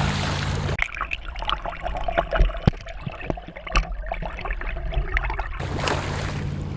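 Water gurgling and trickling around a camera dipped under the river surface, with scattered sharp clicks, framed by a steady hum and wind hiss before it goes under and after it comes back up.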